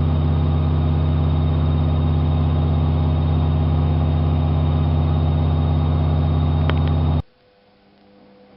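AEG Lavamat 5210 washing machine running with a loud, steady electric hum. A couple of faint clicks come just before the hum cuts off suddenly about seven seconds in.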